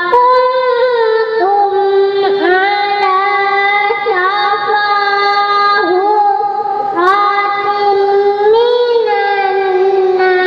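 A young child reciting the Quran in a melodic, sung style, drawing out long held notes with ornamented turns and short breaks between phrases.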